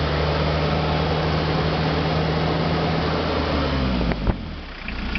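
Toyota 2C four-cylinder diesel engine running steadily. About four seconds in its pitch sags and the sound drops away sharply with a single click, like the engine being shut down.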